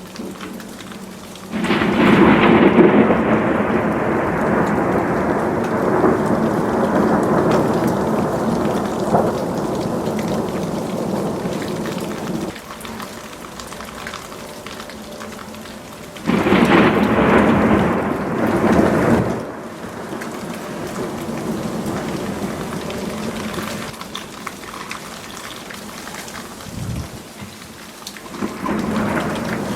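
Thunder in a winter thunderstorm: a loud clap about a second and a half in rumbles away over some ten seconds, and a second peal comes about sixteen seconds in. Underneath is a steady hiss of graupel and snow falling.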